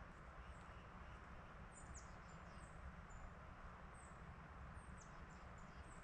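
Faint, very high, thin bird calls: short chips and quick downward-sweeping notes in small clusters about two and five seconds in, over a low steady hush of woodland ambience.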